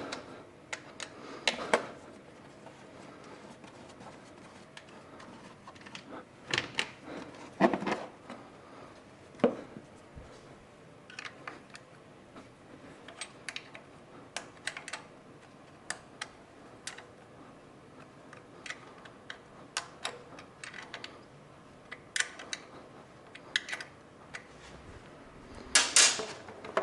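Irregular metallic clicks and knocks of hand tools being handled while taking out a spark plug, with a few louder knocks now and then.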